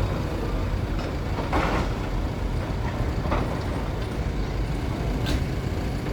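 Steady low rumble of a heavy vehicle's engine, with brief noisy bursts about one and a half, three and a half and five seconds in.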